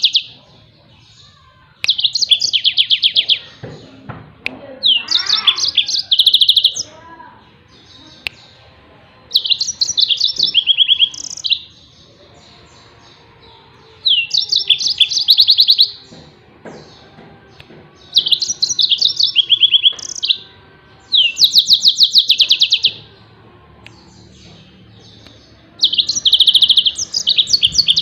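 Yellow-fronted canary (the 'Mozambik' of Indonesian bird-keepers) singing its rapid 'tembakan' bursts: fast runs of high, evenly repeated notes, each lasting about two seconds, coming about every three to four seconds.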